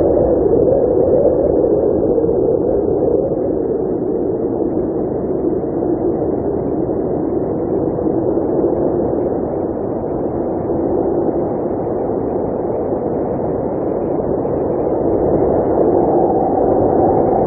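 Blizzard wind blowing steadily, a dull howl whose pitch slowly sinks and then rises again near the end.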